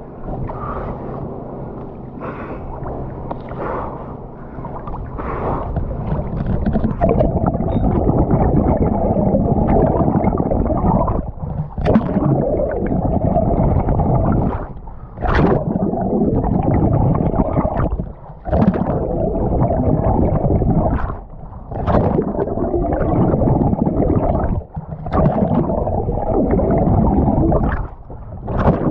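Muffled rushing and gurgling of water close to the microphone during an open-water swim. It grows louder after the first several seconds and then drops out briefly about every three seconds in a regular rhythm.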